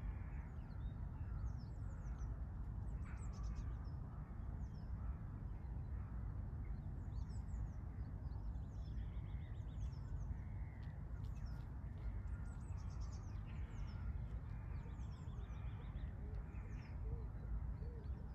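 Several birds calling and singing, many short high chirps scattered throughout, over a steady low rumble.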